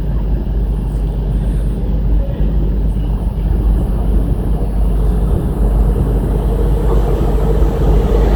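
Train drawing closer through the station: a steady low rumble that slowly grows louder, with more rail noise coming in near the end.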